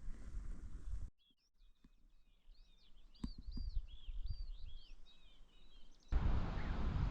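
A small bird singing a quick run of short, high, arching chirps, with a few soft thumps among them. Before and after the birdsong, a steady low rumbling noise cuts in and out abruptly.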